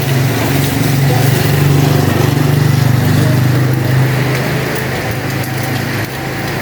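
A small engine running steadily with a fast pulse, loudest in the first four seconds and then fading a little, over the hiss of heavy rain.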